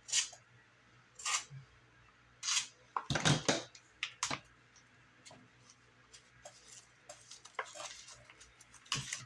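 Masking tape being pulled off the roll, torn and pressed onto a cardboard firework cake: a string of short rasping scrapes and rustles, the loudest about three seconds in, with lighter rustling near the end.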